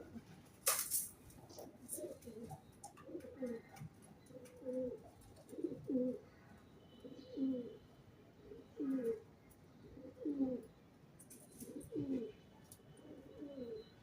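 A pigeon cooing over and over, low rolling coos about one every second and a half. A single sharp click about a second in.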